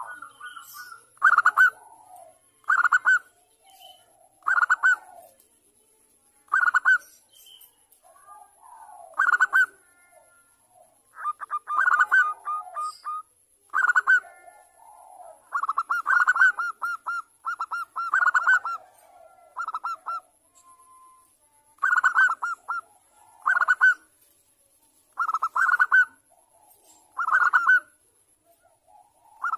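Zebra doves (perkutut) calling: short phrases of rapid staccato cooing notes, repeated every second or two, with quieter answering notes between them.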